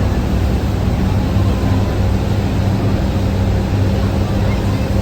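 Steady low drone of a Thames Clipper river boat's engines under way, heard on board, with a constant hum over an even rushing noise.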